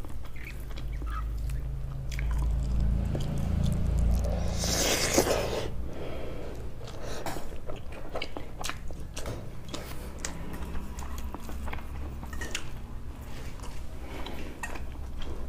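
Close-miked chewing of a mouthful of jeera rice eaten by hand, with many small wet mouth clicks and smacks. A brief, louder, noisy burst comes about five seconds in.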